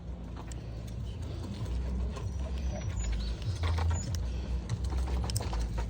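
Small clicks and light scraping of carburetor parts handled by hand as the float hinge pin is fitted, over a low rumble.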